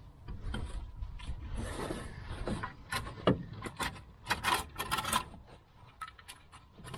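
Scraping, then a quick run of sharp metallic clicks and knocks as a Toyota Celica's front lower control arm, soaped to help it slide, is worked by hand into its mounting.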